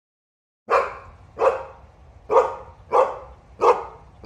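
A dog barking repeatedly: five sharp barks, starting about two-thirds of a second in and coming at an even pace of a little under one a second.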